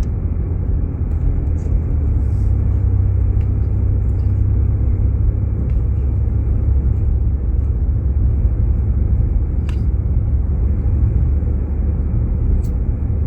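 Steady low road rumble inside a moving Jeep Grand Cherokee, its tyres and engine running on a snow-covered road, with a couple of faint clicks near the end.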